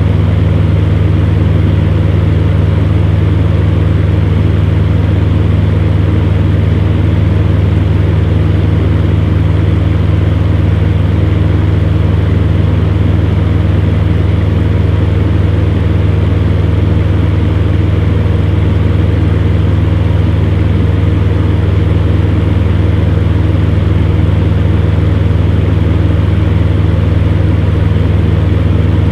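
Electric fan heater running steadily: a constant low hum with an even rush of blown air.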